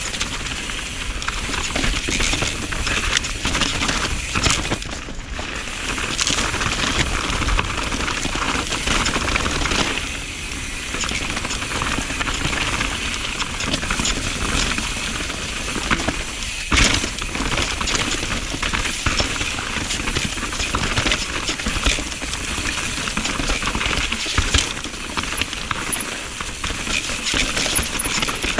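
Mountain bike descending a wet, rooty, rocky trail: continuous rushing tyre and wind noise with frequent rattles and knocks as the bike goes over roots and rocks.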